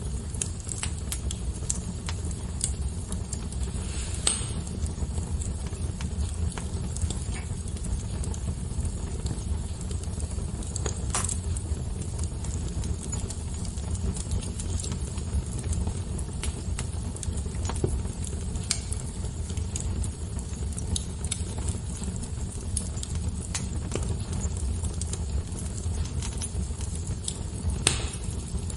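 A fire crackling: scattered sharp pops and snaps over a steady low rumble, with louder pops about four, eleven and twenty-eight seconds in.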